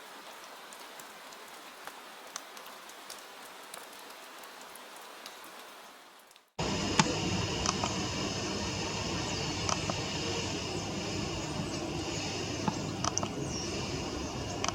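Soft rain pattering, fading out about six seconds in. After a sudden cut, a louder steady outdoor ambience follows, with a low rumble, a high hiss and scattered small clicks.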